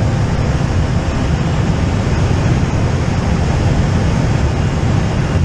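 Steady low drone of a PAC 750XL's Pratt & Whitney PT6 turboprop engine and propeller, heard from inside the cabin in flight.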